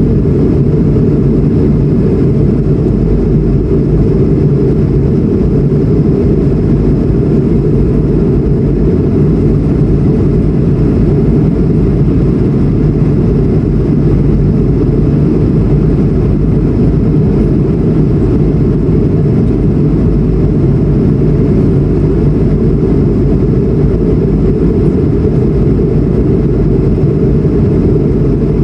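Steady engine and airflow noise of an Airbus A220-100 in flight, heard inside the cabin: its Pratt & Whitney PW1500G geared turbofans make a dense, low, even rumble that holds level without any rise or fall.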